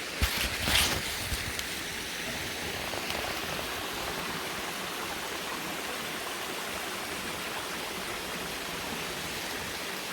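Steady rush of running water from a small waterfall and stream. A few sharp knocks come in the first second and a half.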